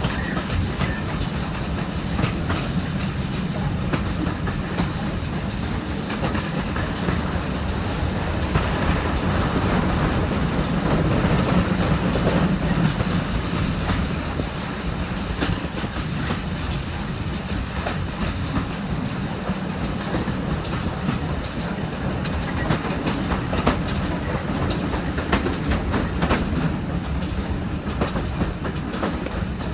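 Heritage railway carriage running behind a Stanier Black 5 steam locomotive, heard at an open window: the wheels clatter over the rail joints in many short clicks over a steady running noise.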